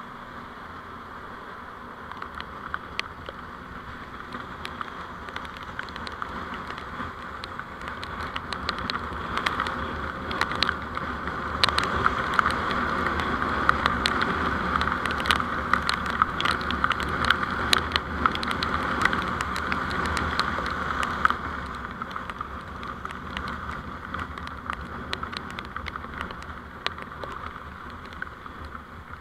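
Road and wind noise from a moving vehicle with many small scattered ticks, swelling to its loudest in the middle and easing off near the end.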